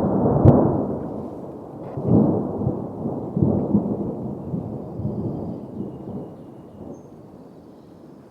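Thunder: a sharp crack about half a second in, then a long rolling rumble that surges twice more and slowly dies away.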